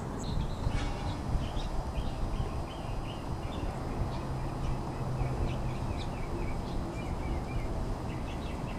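Birds chirping in the background, short high calls coming several times a second, over a low steady hum.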